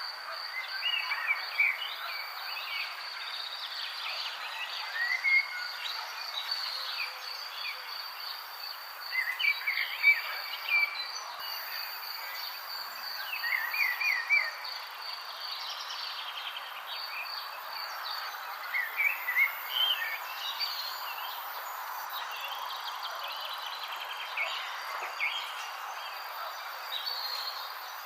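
Morning nature ambience: a steady, fast-pulsing insect trill runs over a background hiss, while birds call and chirp in short phrases throughout, loudest in a few bursts around the middle.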